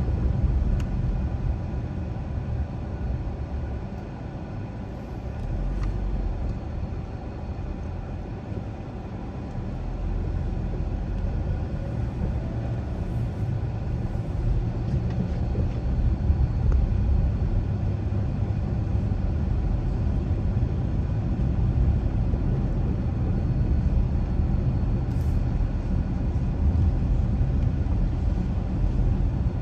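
Steady low rumble of a car driving: road and engine noise. It eases off a few seconds in and builds back up at about ten seconds.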